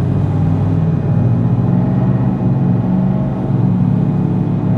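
Car engine running steadily at a low, even pitch, heard from inside the car's cabin.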